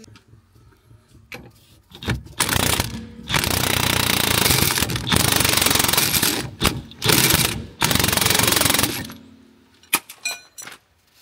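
Loud rapid mechanical rattling, like a hammering power tool, in about five bursts of one to one and a half seconds each, starting about two seconds in and stopping about nine seconds in.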